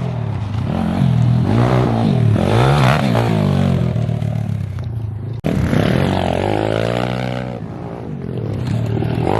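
Pit bike engine revving hard, rising and falling in pitch again and again as the throttle is worked. The sound breaks off abruptly about five and a half seconds in, then the revving picks up again.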